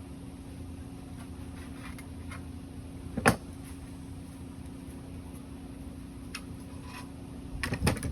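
Steady machine hum in a workshop, with one loud sharp knock about three seconds in, a few light clicks, and a quick run of knocks near the end.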